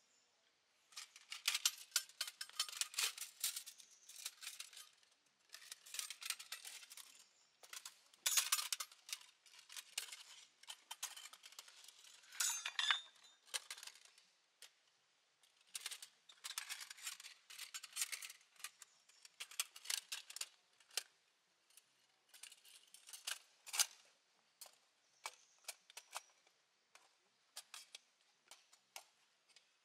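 A folding stainless-steel rocket stove being handled and unfolded: light metallic clicks, clinks and rattles in repeated bursts, with short pauses between them.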